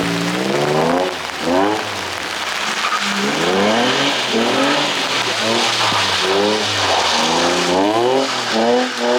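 Drift car engine revving hard in repeated rising sweeps, about half a dozen climbs in pitch, over a steady hiss. The sound cuts off abruptly at the end.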